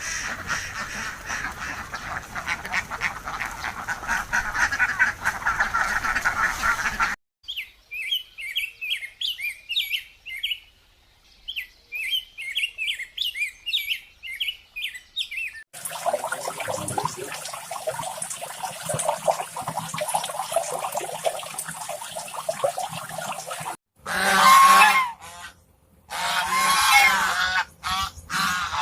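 Domestic poultry calling in a series of cut-together clips: a dense flock chatter, then short high peeping chirps in quick runs, then more flock noise, and loud honking calls in the last few seconds.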